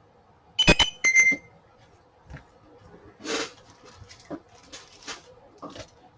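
Two sharp clinks with a short ring, close together about half a second in, then softer rustling and light taps as things are handled.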